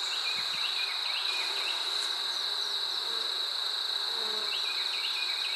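A steady, high-pitched insect chorus drones without a break, with honey bees faintly buzzing around the open hive. Clusters of short falling chirps come in near the start and again near the end.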